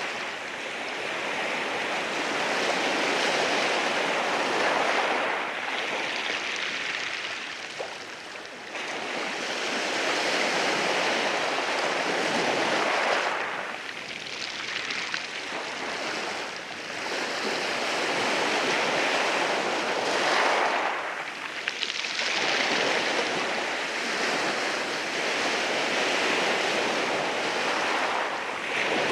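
Sea waves rolling in over rocks, a continuous wash of surf that swells and eases in long surges several seconds apart.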